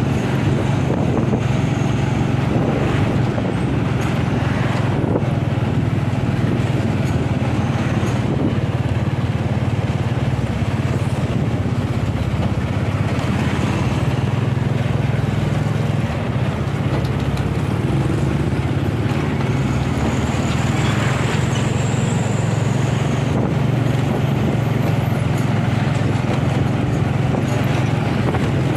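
A road vehicle running steadily on the road: a constant low engine drone with road and wind noise, with no change in pace.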